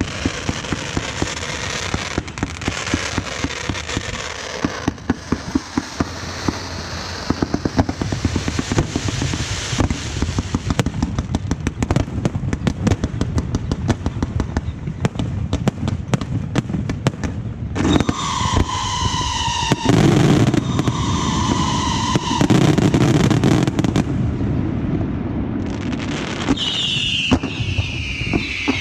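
Aerial fireworks show: dense, rapid crackling and popping of bursting shells. In the second half come high whistling tones, ending with a falling whistle near the end.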